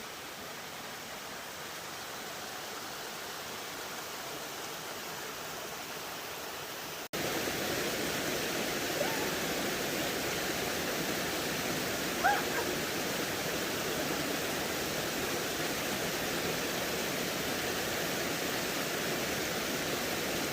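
Steady rush of falling water from a waterfall, an even hiss that jumps louder at a cut about a third of the way in. Two short chirps sound over it, the second and louder one near the middle.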